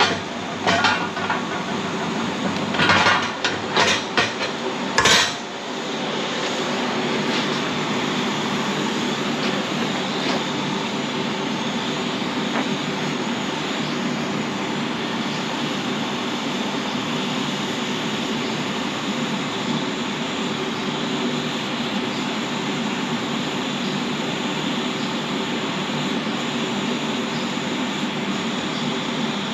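A few sharp metal clinks and knocks on steel, then a steady crackling hiss from a flux-cored wire-feed welding arc that runs on without a break.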